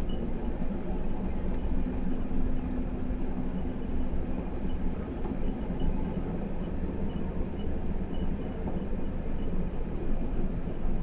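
Ford ambulance-conversion truck driving slowly: a steady engine and road rumble.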